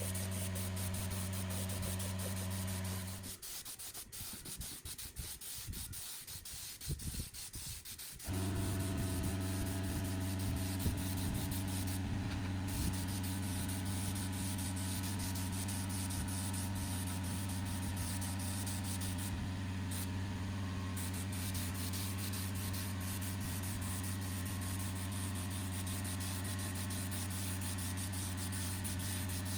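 Electric sanding or grinding tool running steadily with a low hum and a hiss of abrasive on metal, as rusty compressor parts are cleaned. It cuts out about three seconds in, leaving a few seconds of quieter scraping, then runs steadily again.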